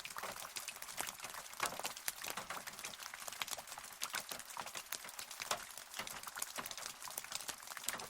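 Rain falling steadily, with many separate drops tapping at an irregular pace over a soft hiss of rainfall.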